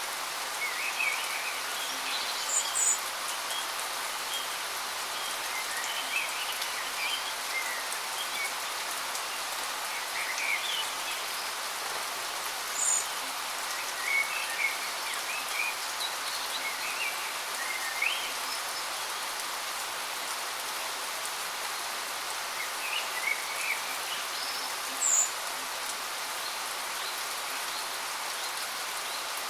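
Steady, even rush of a waterfall, with small birds chirping briefly now and then over it.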